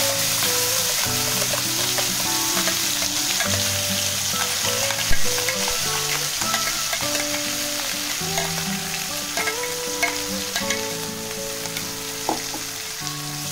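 Ground onion-and-cashew paste sizzling as it goes into hot ghee with cumin seeds and bay leaves, while a spoon scrapes the paste out of a steel bowl; one sharp knock about five seconds in. Soft background music with held notes runs underneath.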